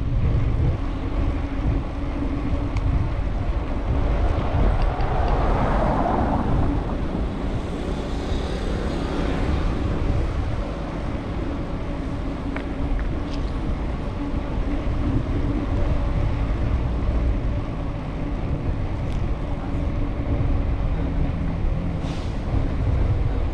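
Wind rumbling on a bicycle-mounted action camera's microphone while riding through street traffic, with a steady low hum. A vehicle swells past about five to seven seconds in.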